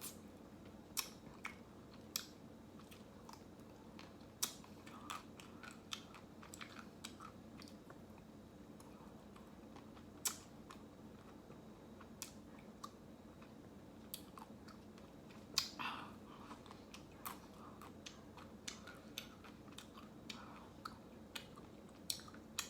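Close-up mouth sounds of a person eating ice cream: irregular wet clicks, smacks and small crunches of chewing and biting. A faint steady hum runs underneath.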